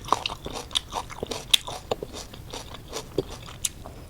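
Close-miked chewing of crisp fruit chili pepper, with irregular crunches.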